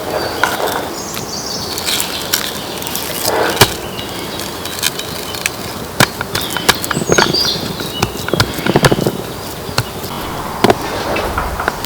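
Irregular sharp clicks and knocks, with short bursts of scraping or rustling about three seconds in and again around eight to nine seconds in.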